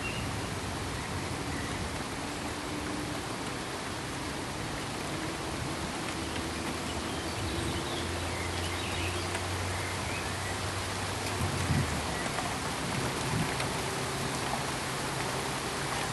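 Steady, even hiss-like pink noise, sounding much like rain, at constant level. A faint low hum sits under it, and there are two brief soft bumps in the second half.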